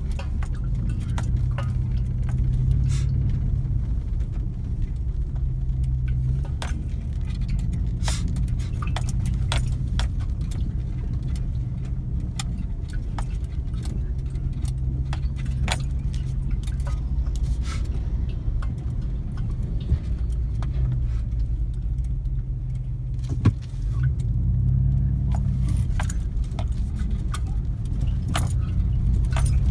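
A motor vehicle's engine running steadily, its pitch shifting now and then and rising briefly about 24 seconds in, with frequent light metallic clicks and rattles.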